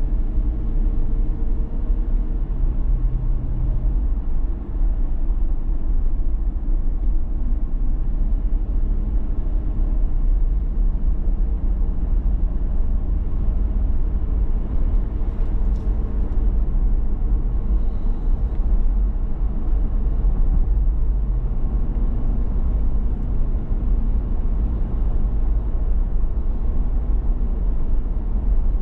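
Steady low rumble of a 2019 Toyota 4Runner TRD Pro driving along, its engine and tyre noise on the road, with a few faint brief higher sounds about halfway through.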